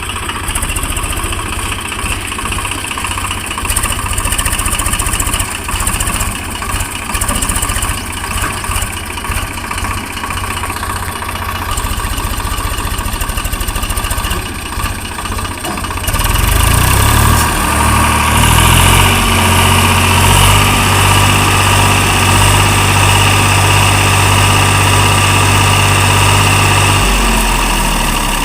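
Diesel engine running steadily at low revs, then revving up about sixteen seconds in and running louder and harder, with a brief drop near the end.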